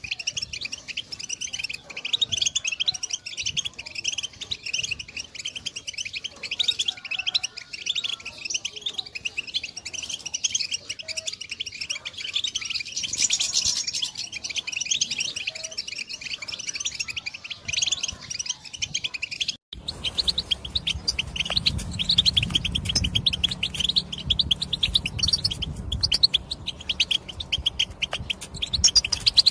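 European goldfinches giving fast twittering chirps and calls in a dense, unbroken run. Just before two-thirds of the way through there is a brief dropout, and the calling carries on over a low hum.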